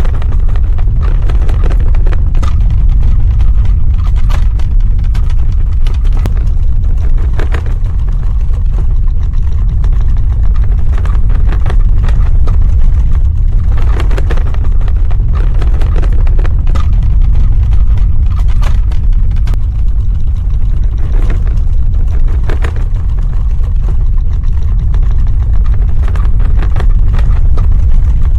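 Earthquake rumble sound effect: a loud, continuous deep rumble with irregular crackles and rattles over it.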